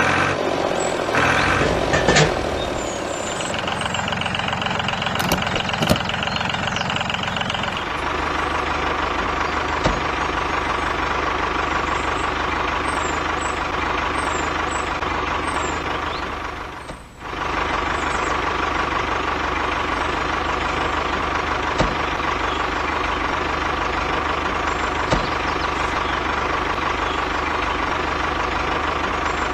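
Tractor engine running steadily with a pulsing hum. It changes pitch about eight seconds in and briefly drops away in the middle.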